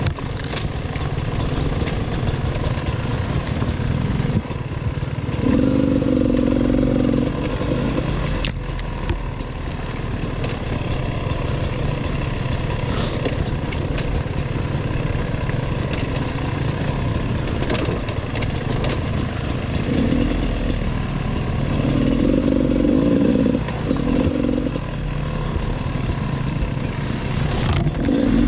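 Dirt bike engine running under load on a trail ride, picking up revs in short bursts a few times. Scattered knocks and rattles come from the bike over rough ground.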